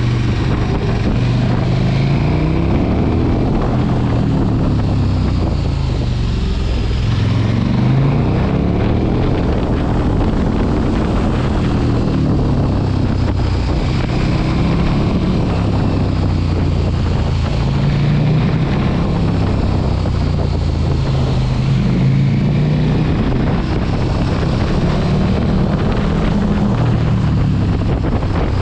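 Large sport motorcycle engine running at road speed, its note rising and falling in pitch again and again as the bike accelerates and eases off, with wind rushing over the microphone.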